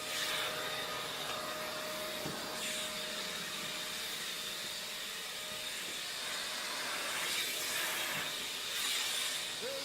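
Dyson Big Ball Multifloor canister vacuum running steadily: an even airy rush with a faint high whine.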